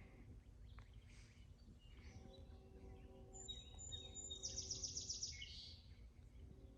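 A songbird sings clear whistled notes and then a quick trill, about eight notes a second, midway through. Beneath it, the faint chord of a distant locomotive horn sounds in long blasts, the K5HL horn of an approaching CN freight.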